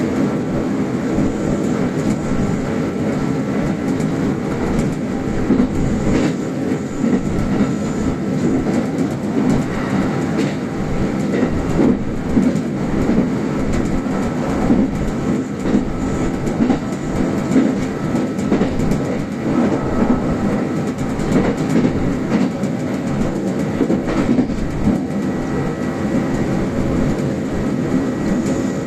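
Kintetsu standard-gauge electric express train running at speed, heard from inside the front car: a steady rumble of wheels on rail with irregular knocks over the rail joints.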